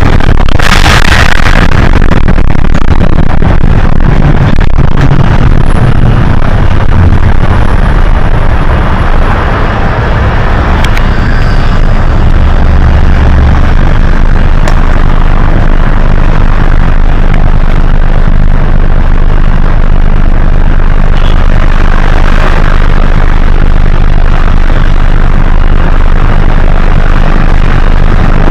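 Hino HS8JRVL city bus running under way: steady engine and drive noise whose low pitch shifts now and then, with a short hiss about a second in.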